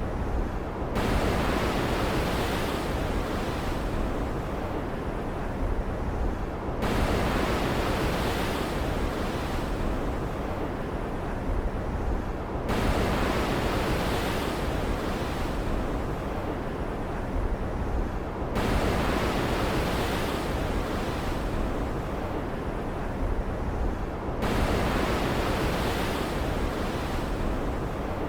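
Stormy sea ambience: a steady rush of surf and wind-blown water that swells abruptly about every six seconds and then thins out, in an evenly repeating pattern.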